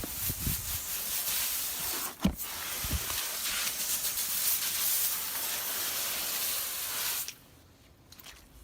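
Water spraying hard from a hose nozzle as a steady hiss, with a brief thump about two seconds in; the spray shuts off abruptly about seven seconds in.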